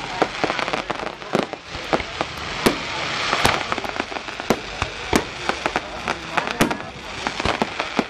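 Fireworks display: aerial shells bursting with a dozen or so sharp bangs at uneven intervals, over a continuous crackle from the falling stars.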